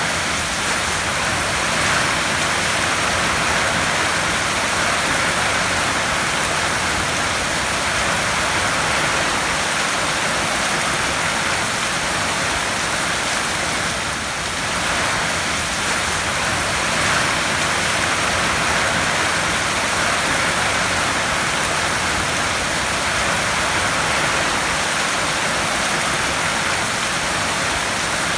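Heavy rain falling on a tin roof: a dense, steady hiss that swells slightly now and then.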